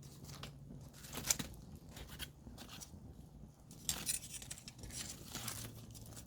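Campfire of burning wood crackling, with irregular sharp pops and snaps; the loudest pops come about a second in and near four seconds.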